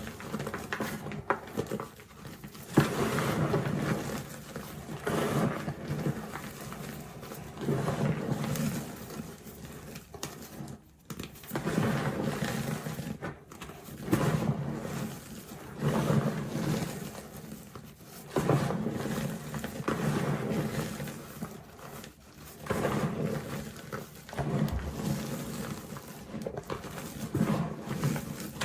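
Reformed gym chalk being crushed, crunching and crumbling in repeated surges every second or two, with a few sharp snaps.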